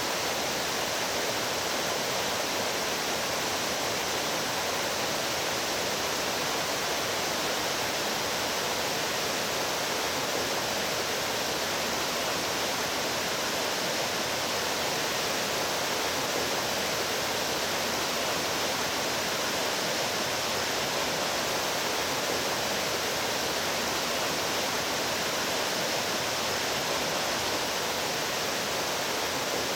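Mountain stream rushing, a steady, even water noise with no breaks.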